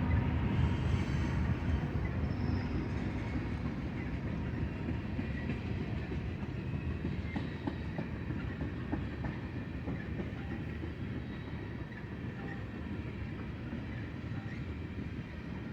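Freight cars of a long BNSF train rolling past, a steady low rumble with scattered wheel clicks over the rail joints, slowly fading.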